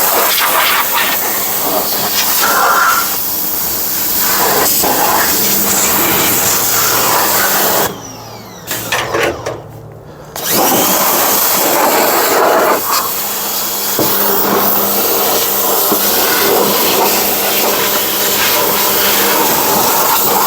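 Pressure washer spraying water onto a car's engine bay, a steady loud hiss with a pump hum. The spray stops for about two and a half seconds near the middle, then starts again.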